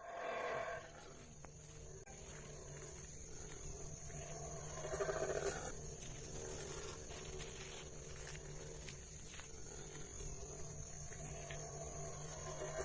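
An animal calling, strongest about five seconds in and again near the end, over a steady high hiss.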